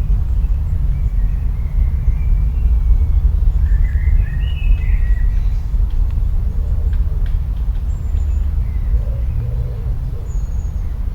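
A steady low rumble of outdoor ambience, with a few faint bird calls over it: short gliding calls from about one to five seconds in, and brief high chirps near the end.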